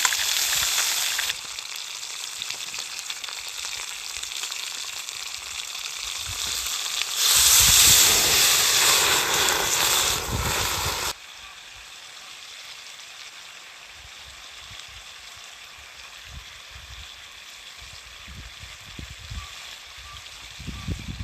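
Chicken thighs sizzling as they fry in a pan. The sizzle is loudest for a few seconds in the middle and much quieter for the second half.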